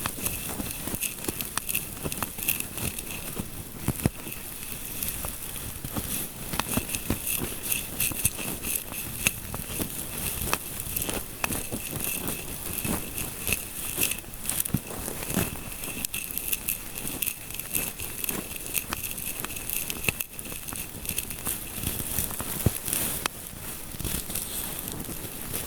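Fingertips rubbing and scratching through hair close to the microphone, a dense, continuous crackling that goes on without a break.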